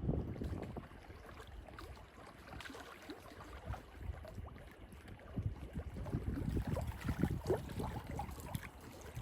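Paddle dipping and water splashing and lapping around an inflatable packraft, with irregular small splashes and drips over a low rumble of wind.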